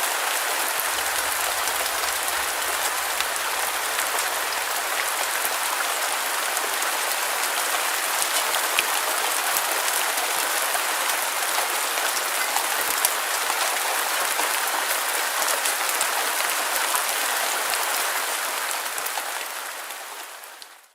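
Steady rainfall, a dense hiss of rain with scattered small drop ticks. It fades out over the last few seconds.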